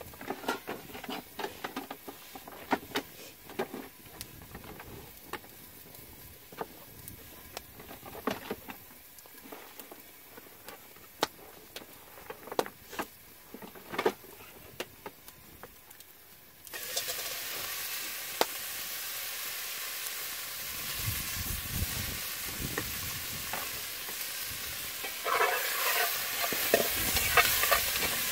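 Wood campfire crackling and popping under a lidded cast-iron pot. About two-thirds through, a steady sizzle of potatoes, onions and garlic frying in oil comes in suddenly as the lid comes off. Near the end a metal spatula scrapes and stirs the food in the cast-iron pot.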